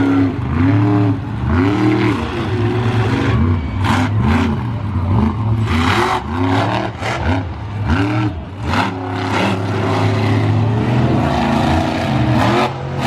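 Monster truck engines revving hard over and over, the pitch swinging up and down about once or twice a second over a steady low drone, with a few short bursts of noise in the middle.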